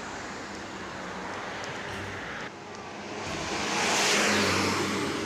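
A bus driving past: engine hum and rushing tyre and air noise swell to their loudest about four seconds in, then begin to fade. Steady street noise comes before it.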